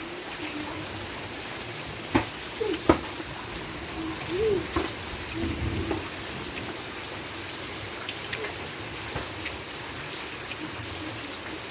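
Steady heavy rain falling, a continuous even hiss, with faint distant voices and two sharp knocks about two and three seconds in.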